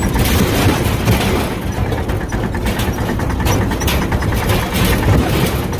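Tractor engine running steadily with a continuous low rumble.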